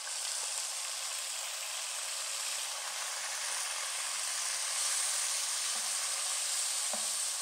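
Marinated chicken strips sizzling steadily as they fry in hot oil and garlic in a non-stick pan, with a light tap of a wooden spatula near the end.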